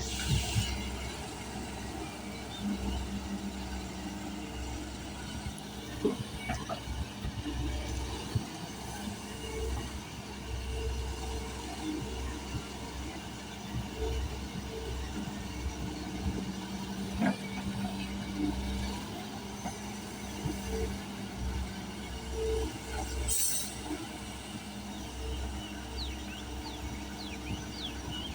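A steady low mechanical rumble with a faint humming tone that comes and goes, and a few scattered clicks.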